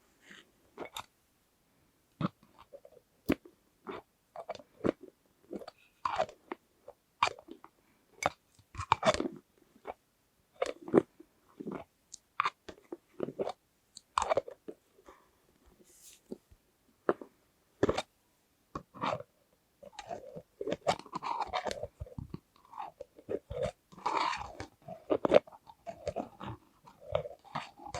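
Close-miked ASMR handling sounds: irregular sharp clicks and taps. About two-thirds of the way in they thicken into denser crackling.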